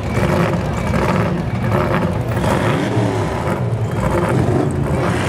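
Loud, steady low-pitched running of classic American muscle-car engines and exhausts as the cars cruise slowly past.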